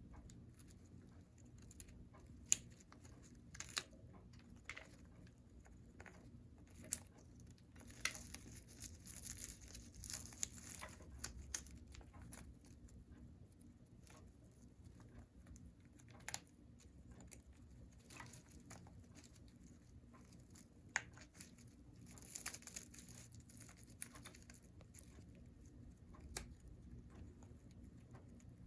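Congo African grey parrot chewing and tearing at a chew toy: scattered sharp clicks and snaps, with two longer stretches of crinkly tearing, about eight seconds in and again around twenty-two seconds in.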